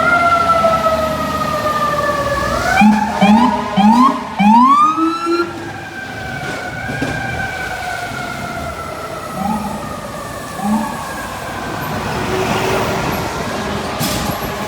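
A fire truck's mechanical siren winding down in a long, slowly falling wail. It is blipped back up in a quick series of short rising whoops about three seconds in, and twice more later, over the low rumble of the truck's engine.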